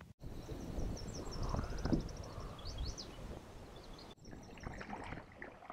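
Birds singing outdoors, including a fast trill of high repeated notes and a few rising chirps, over a low rumbling noise. About four seconds in the rumble drops away, leaving quieter bird chirps.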